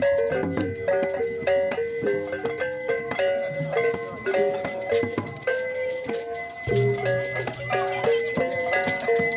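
Balinese gamelan music: struck bronze metallophones ringing out a quick melody of short notes that step up and down.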